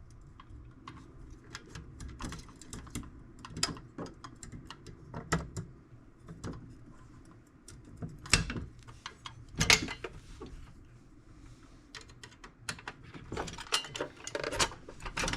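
Irregular light metallic clicks, clinks and knocks of hand tools and small parts being handled on a steel tool box, with a couple of louder knocks past the middle and a quicker run of clicks near the end.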